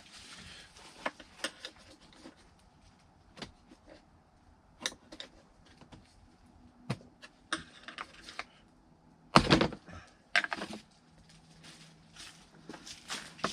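Scattered clicks and knocks of a plastic HVAC heater box being taken apart by hand as its clips are released, with a louder clatter a little past the middle.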